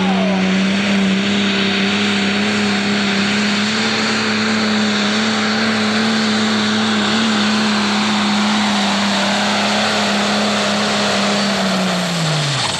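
Pro Stock pulling tractor's turbocharged diesel engine held wide open at a steady high pitch during a pull, then dropping in pitch near the end as the throttle comes off.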